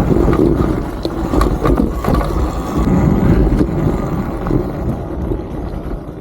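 Riding noise from a Talaria Sting R electric dirt bike on a rough trail: wind rumbling on the rider's microphone with scattered knocks and rattles from the tyres and chassis, dying down near the end as the bike slows.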